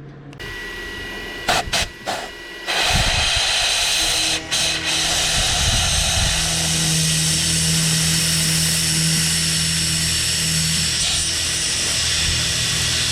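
A metalworking machine tool in a small machine shop: a few clicks and knocks, then its motor starts about three seconds in and runs steadily with a constant hum and hiss.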